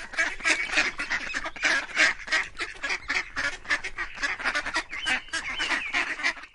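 Ducks quacking, a rapid run of short calls crowding one on another, cutting off suddenly near the end.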